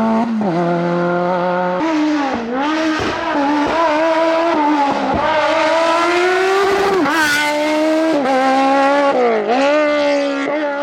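Rally car engine under hard acceleration, its revs climbing and then dropping sharply several times as the driver shifts gears or lifts for corners.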